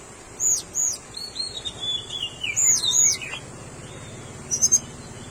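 Tickell's blue flycatcher singing: high, sweet whistled phrases of arching and gliding-down notes, ending with a quick cluster of short high notes.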